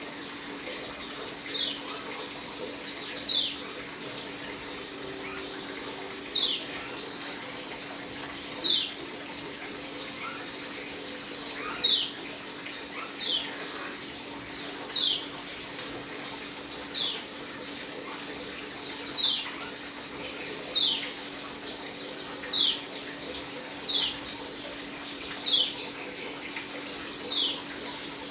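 Pleci (white-eye) of the dakun type giving single short, high chirps that slide downward, one every second and a half to two seconds, over a steady hiss.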